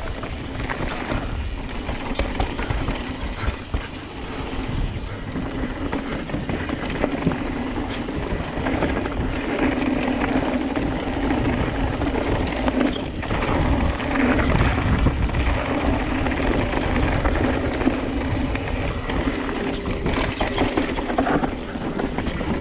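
Wind rushing over the microphone and the rattle and knocks of a mountain bike running down a rough dirt trail, as a steady loud rush with many small clatters.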